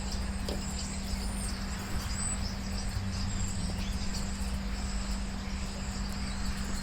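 Insects chirping steadily, with a steady low hum underneath.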